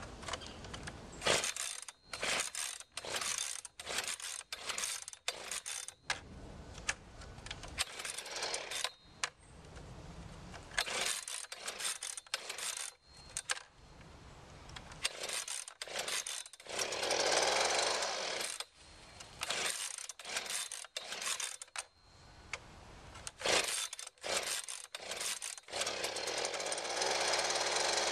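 Small two-stroke engine of a new Husqvarna 125B handheld leaf blower being cold-started: run after run of quick rips on the recoil pull cord, the engine catching briefly for a couple of seconds about two-thirds of the way through, then starting and running steadily near the end. The hard start is something the owner puts down to a choke lever that works backwards.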